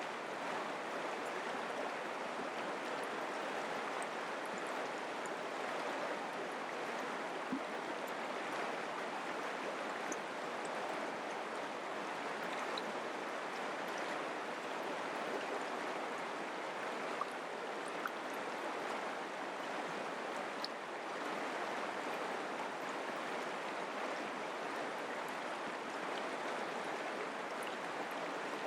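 Mountain creek flowing steadily, its water rushing over rocks.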